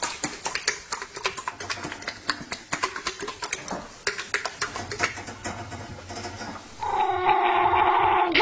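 Rapid, irregular clicking and tapping for about seven seconds, then near the end an animal breaks into a loud, drawn-out, high-pitched cry.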